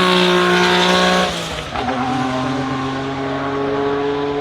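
A high-revving car engine pulling hard, then a sudden drop in pitch and loudness about a second and a half in as it shifts up, and the engine note climbing again from lower revs.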